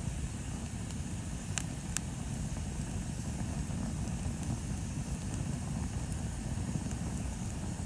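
Bonfire burning with a steady low rumble and scattered faint crackles, with two sharp pops of burning wood about one and a half and two seconds in.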